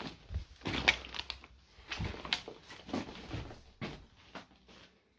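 Footsteps crunching over debris on a littered floor: irregular crunches and knocks, about two a second, fading out near the end.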